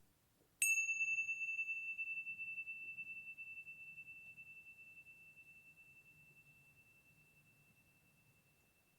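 A high-pitched meditation chime struck once about half a second in, ringing on one clear tone that fades slowly over about seven seconds with a slight wavering.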